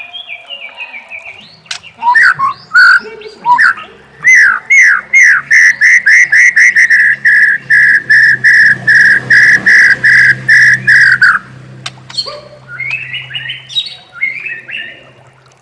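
White-rumped shama (murai batu) singing. A few falling whistled notes lead into a long, loud run of rapidly repeated notes, about three a second, which stops abruptly. After a short pause come more varied warbled phrases over a faint low hum.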